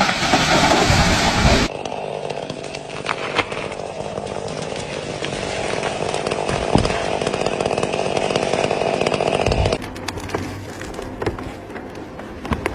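Chainsaw running and cutting wood, in several spliced clips: the sound changes abruptly about two seconds in and again near the end.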